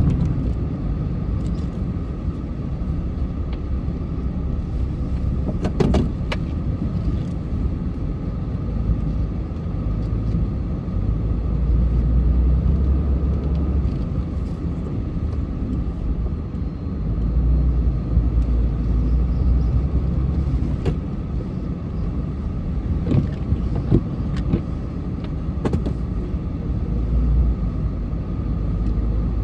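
Motor vehicle running with a steady low rumble, with a few brief knocks.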